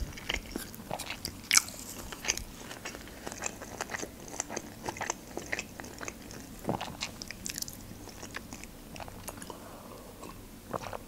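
Close-miked chewing of a large California sushi roll: soft, irregular wet mouth clicks and smacks. Near the end, a drink from a glass.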